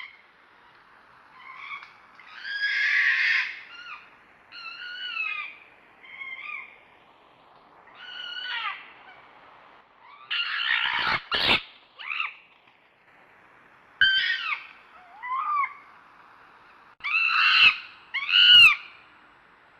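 A fox calling over and over: a dozen or so short, high calls, each bending down in pitch, spaced irregularly and some coming in quick pairs. Two sharp clicks come about halfway through.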